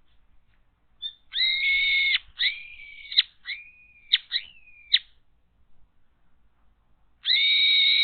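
Loud, shrill, harsh bird calls: a long call of nearly a second, then a run of shorter calls, one dipping and rising in pitch, and another long call near the end.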